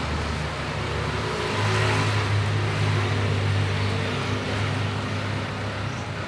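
An engine running steadily with a low hum and a rushing noise, its pitch stepping up about a second in.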